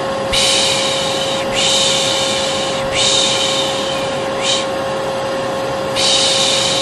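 Vacuum cleaner running with a steady hum, overlaid by a person's long soothing "shhh" (pış pış) shushes, each about a second and a half long, repeated back to back about five times: white noise used to calm a baby.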